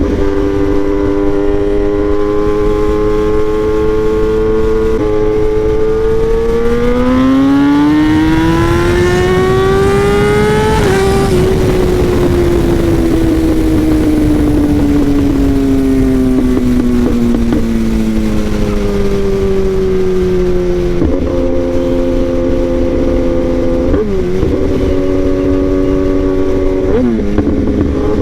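Kawasaki ZX-10R inline-four engine through an SC Project exhaust, heard from the bike while riding. After a gear change about five seconds in, the pitch climbs steadily under acceleration, then falls slowly for several seconds as the bike slows, with three quick gear changes near the end. A steady rush of wind noise runs under it.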